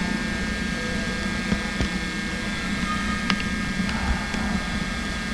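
Steady electrical hum with a few faint clicks and knocks.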